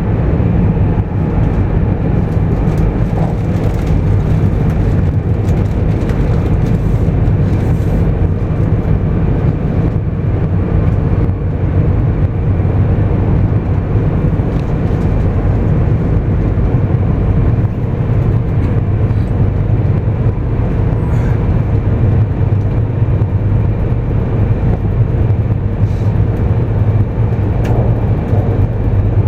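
Steady running noise of a 200 series Shinkansen heard inside the passenger cabin: a continuous low rumble with a faint steady hum.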